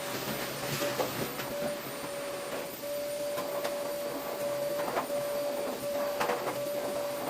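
A small motor humming steadily with a thin whine that drops out and comes back, with a few light knocks and clicks of handling.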